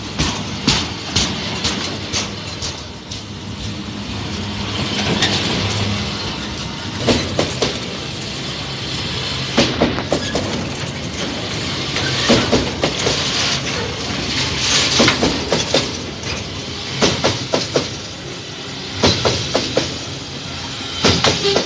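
Freight train of pulp wagons rolling past. A steady rumble is broken by clusters of sharp clacks every two to three seconds as the wheelsets cross rail joints.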